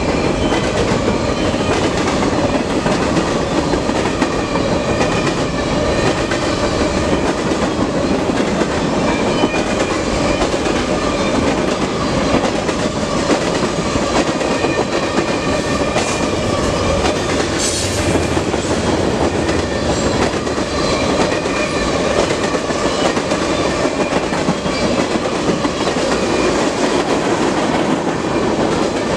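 Freight train cars, covered hoppers and then tank cars, rolling past close by: steady loud noise of steel wheels running on the rails. A brief sharp high hiss cuts through about eighteen seconds in.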